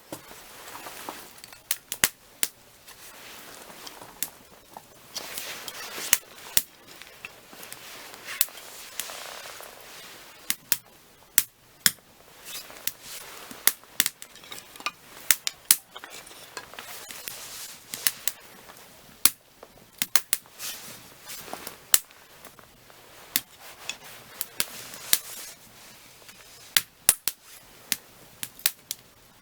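Burning firewood crackling: irregular sharp pops and snaps over a soft hiss of flames that swells and fades.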